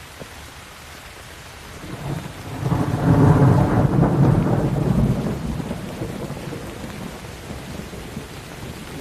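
Steady rain with a peal of thunder that swells about two seconds in, is loudest for a couple of seconds, then rolls away slowly under the rain.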